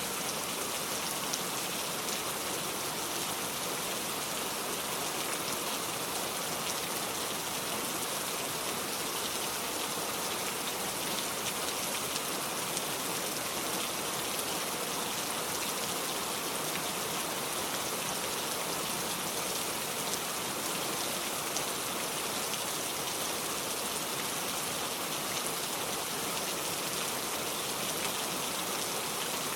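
Steady rainfall: an even, unbroken patter of many drops with no change in intensity.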